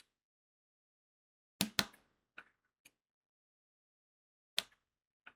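Crystal diamond-painting drills clicking as a drill pen presses them onto the sticky canvas. There are a few sharp clicks: two close together about one and a half seconds in, two lighter ticks after them, and another sharp click near the end.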